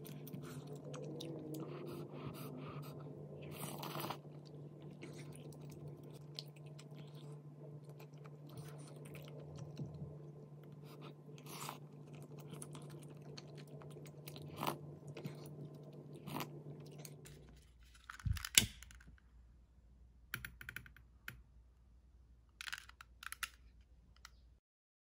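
Close-up eating sounds: someone chewing soft tteokbokki rice cakes, with wooden chopsticks and a wooden spoon clicking against the pot, over a steady low hum. About three-quarters through, the hum stops suddenly and a sharp knock follows, then a few faint ticks.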